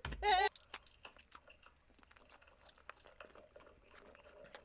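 Close-miked wet chewing of raw live octopus: a string of faint small squelching clicks. It is preceded at the very start by a brief high-pitched whimper from the eater.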